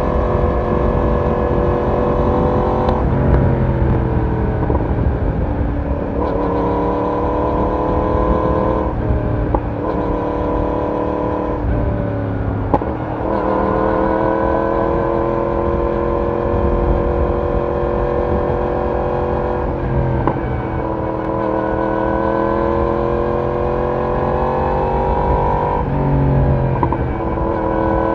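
Yamaha YZF-R1 inline-four exhaust while riding, the engine note climbing steadily and then dropping sharply several times as the revs change through gears and throttle.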